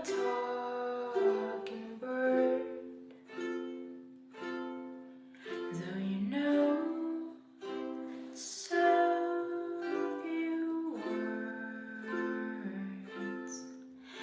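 Solo ukulele playing a slow instrumental intro, picked chords struck about once a second and left to ring.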